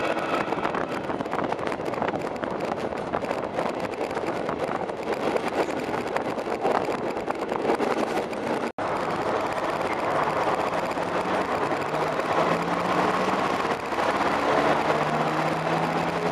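Diesel passenger train on the move, recorded from an open window: a steady mix of wind rush and running noise along the track. There is a brief cut-out a little past the middle. After that a low engine note comes up and rises slightly in pitch as the train pulls on.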